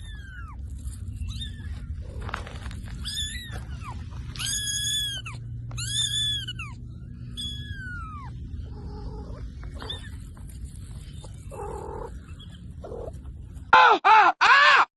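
A dog whining in a series of high-pitched, arching whines, each about half a second long, over a low background rumble. Near the end come much louder cries.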